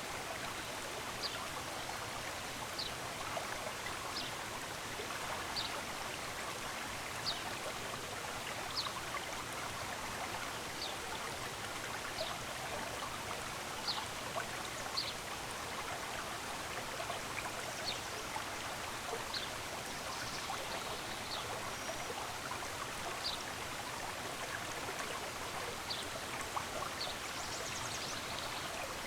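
Stream water running steadily, with a bird giving short, high chirps about every one and a half seconds and a few fainter calls from other birds.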